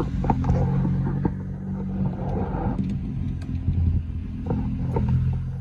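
Car engine running with a steady low rumble, heard while the car is driven slowly through a U-turn, with a few light clicks over it.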